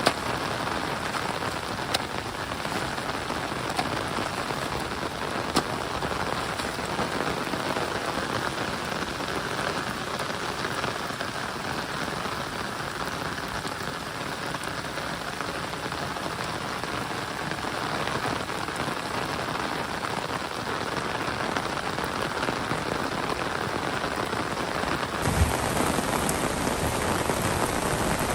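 Heavy monsoon rain falling steadily, a dense even hiss with occasional sharp drip ticks. Near the end a low thump, after which the rain sounds brighter.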